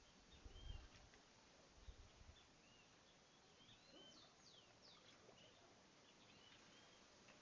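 Faint outdoor ambience of several small birds chirping, with a few low thumps in the first two seconds or so.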